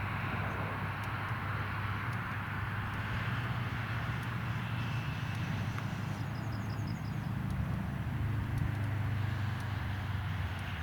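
Valtra tractor engine running steadily under load while pulling a Claas Quadrant 2200 square baler, with the baler's mechanical clatter alongside. The sound gets a little louder about eight seconds in.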